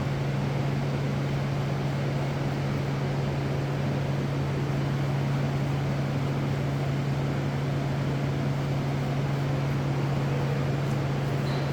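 Foundry machinery running with a steady low hum over an even rushing noise.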